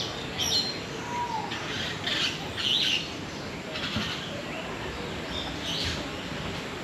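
Birds calling: several short, high chirps scattered through, with one brief falling whistle about a second in, over a steady background hubbub.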